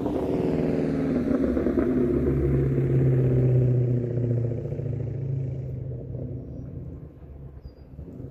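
2003 Mustang Mach 1's 4.6-litre V8 through a Carven aftermarket exhaust, a deep rumble. Its pitch falls over the first couple of seconds, then it holds a steady low note that grows quieter near the end.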